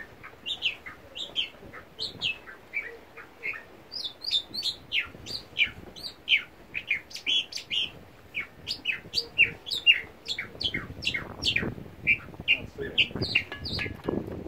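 Small birds chirping rapidly in scrub: many short, high, falling chirps, several a second.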